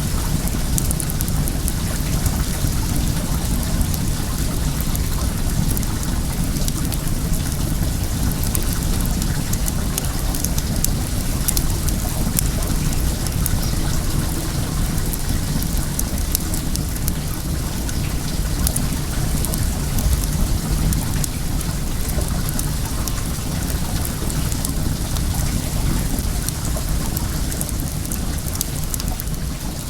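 A bonfire crackling, with many small sharp pops, over the steady rush of flowing well water and a low rumble.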